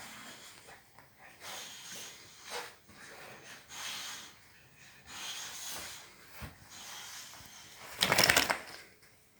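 Sleeping boxer dog snoring, noisy breaths coming about every one and a half seconds. Near the end comes a much louder burst of noise lasting under a second.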